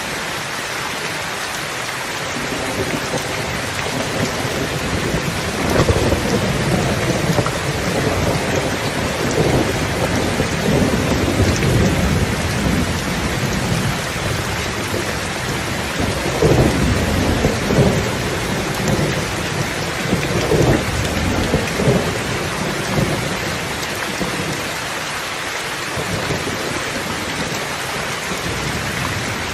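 Steady rain, with rolling thunder rumbling in swells from a few seconds in until a few seconds before the end.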